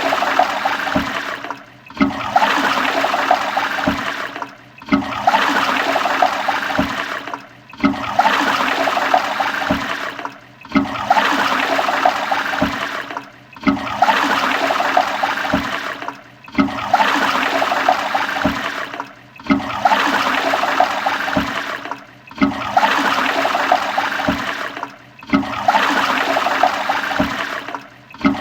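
Toilet flushing: a loud rush of water that cuts out briefly and starts again sharply about every three seconds, the same flush repeating over and over.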